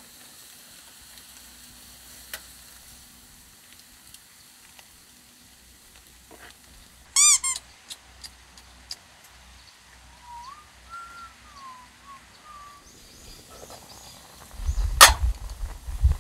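Quiet outdoor ambience with a soft steady hiss. A bird gives a quick run of three short chirps about seven seconds in, and a thin wavering whistled bird call follows from about ten to thirteen seconds. Low handling thumps and one sharp knock come near the end.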